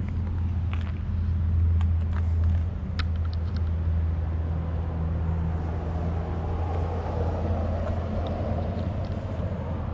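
Steady low hum of an idling vehicle engine, with a few faint clicks and a faint passing hiss in the middle.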